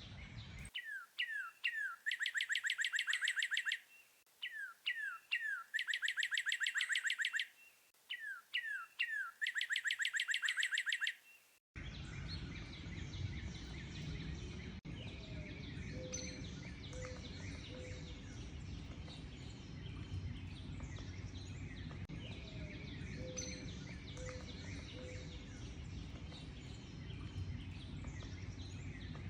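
Songbird singing the same phrase three times: a few quick falling notes, then a fast, bright trill. Near the middle the recording cuts to a busy outdoor bird chorus, with many distant chirps and a low three-note call repeated every few seconds over a steady background hiss.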